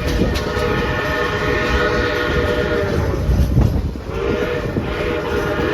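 Steam locomotive whistle sounding a long chord-like blast that stops about three seconds in, then a second blast about a second later, over the low rumble of the moving train.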